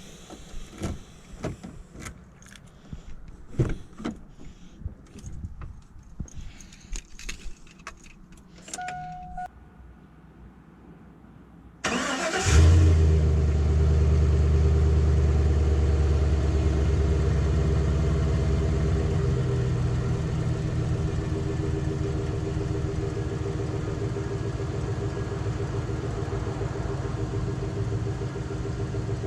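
Scattered clicks and knocks and a short beep, then about twelve seconds in the truck's engine cranks briefly and catches on a cold start. It settles into a loud, steady fast idle that eases down a little later on.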